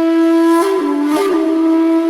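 Background music: a solo wind instrument holds a long, steady note, briefly steps down to a lower note about a second in, then returns to the held note.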